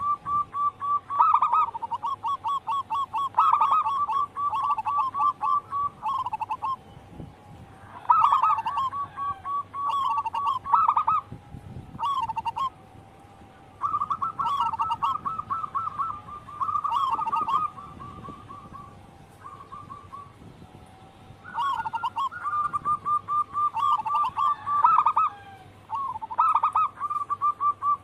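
Zebra dove cooing: phrases of fast, repeated short notes, each phrase lasting a few seconds, with brief pauses between them.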